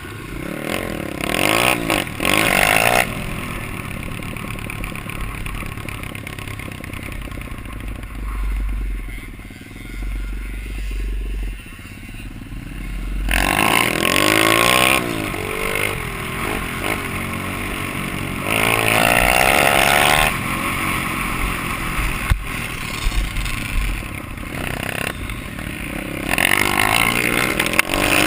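Pit bike engine running and revving in repeated throttle bursts, each a rising climb in pitch, with steadier running between them.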